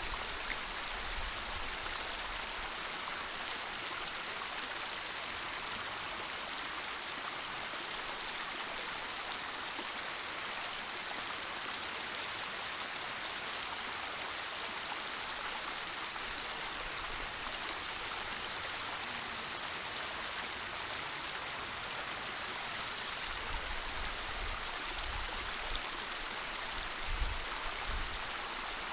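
Waterfall: water falling and rushing in a steady, even hiss, with some low rumbling toward the end.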